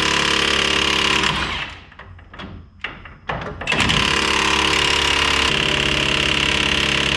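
Cordless impact wrench hammering on a suspension nut. It runs for about a second and a half, gives a few short blips, then runs again steadily through the rest. It is driving the nut back onto the bolt instead of off it.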